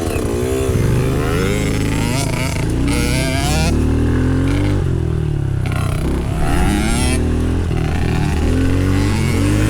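Small dirt bike engine running hard, its pitch repeatedly rising and falling as it revs up and drops back.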